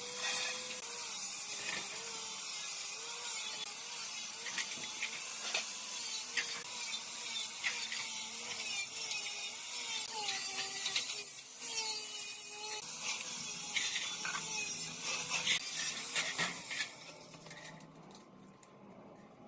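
A small power tool runs over a steady hissing, scraping noise, its pitch dipping and rising again and again as if under changing load. It dies down about three quarters of the way through.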